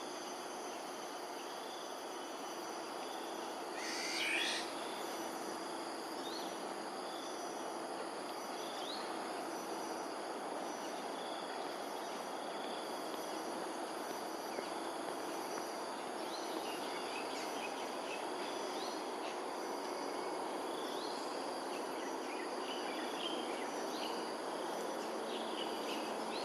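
Morning outdoor ambience of steady insect trilling over a constant background noise. Scattered short bird chirps come through, with one louder bird call about four seconds in.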